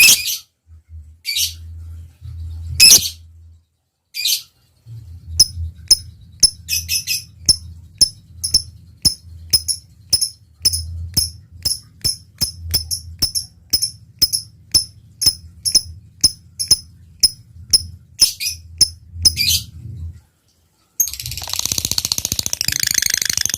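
Lovebird calling: a series of short, sharp high chirps about two a second (the 'ngetik' ticking), then after a brief pause a long, dense, continuous chatter near the end (the 'ngekek' trill).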